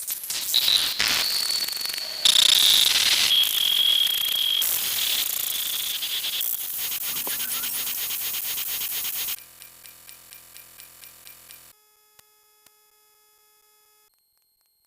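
A loud, dense mix of edited sound effects with shrill whistle-like tones, cut off suddenly about nine seconds in. A faint pulsing of about four beats a second with steady tones follows, then fades to near silence near the end.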